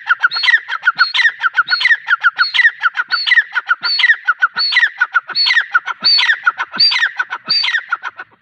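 Grey francolin (teetar) calling over and over, the call the recording presents as the female's. It is a loud, quick phrase about every 0.7 seconds: a high note, then a fast run of notes stepping downward.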